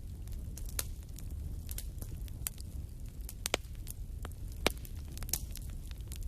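Wood fire burning in a fireplace: a steady low rumble of flames with scattered sharp crackles and pops, two louder pops about three and a half and four and a half seconds in.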